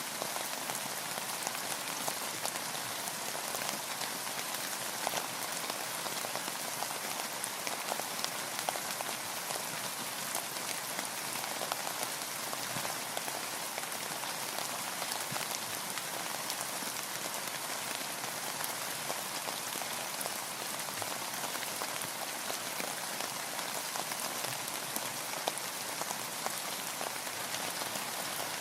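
Steady rain falling on a boat, a dense even hiss of countless small drop impacts that never lets up.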